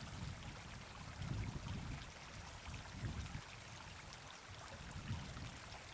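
Wind buffeting the microphone outdoors in irregular low gusts, over a steady faint high hiss.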